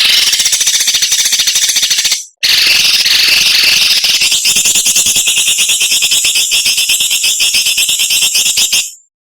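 A songbird's harsh, rasping 'besetan' chatter, a fast rattle of sharp notes used to train caged songbirds. A burst of about two seconds, a brief break, then a longer run that stops about a second before the end.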